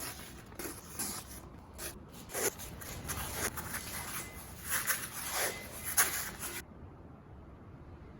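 Irregular scraping and rubbing strokes, uneven in strength, that stop about six and a half seconds in.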